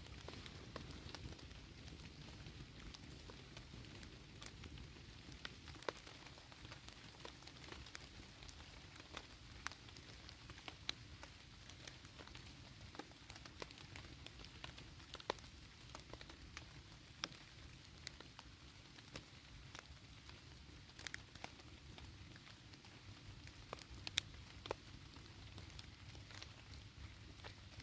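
Light rain falling steadily and faintly, with scattered sharp ticks and pops throughout.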